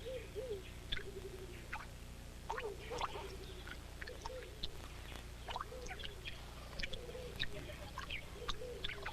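Scattered light plinks of drops falling into water as tree frog tadpoles drip out of the bottom of their foam nest, over repeated low wavering animal calls.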